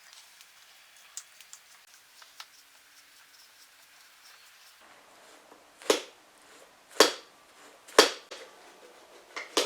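Faint small clicks over quiet room tone, then from about five seconds in a series of sharp, loud snaps, about one a second.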